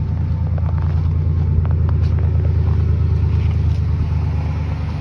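Chevy gasoline engine idling steadily just after a cold start in freezing weather, having sat unstarted for a week or more, with a low rumble and a faint whine on top that the owner cannot place.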